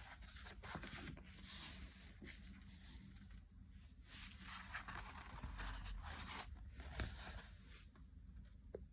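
Irregular rasping strokes of hand scrubbing on a hard surface, in two spells with a short lull about three seconds in; the second spell is the strongest.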